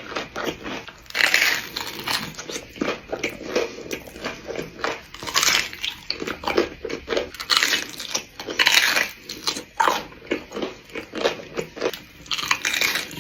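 Close-miked eating sounds: a person biting into and chewing sushi pizza, in irregular bites and chewing noises.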